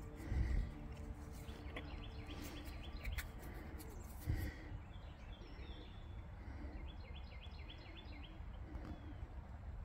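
A songbird singing two runs of quick repeated chirps over steady outdoor background noise. Two brief low thumps, one near the start and one about four seconds in, are the loudest moments.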